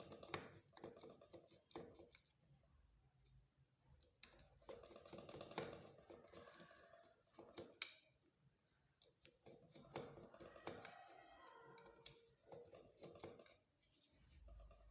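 Faint irregular clicks and scraping of a Phillips screwdriver and small metal and plastic parts as the screws of a washing machine motor's carbon brush holder are undone.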